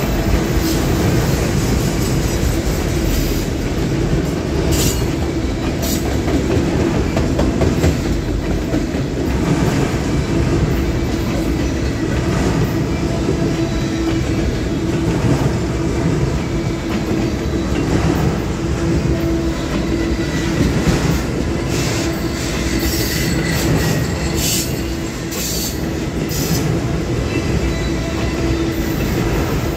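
Autorack freight cars rolling past at close range: a steady rumble and clatter of steel wheels on the rails, with a steady hum and a few short high-pitched screeches from the wheels.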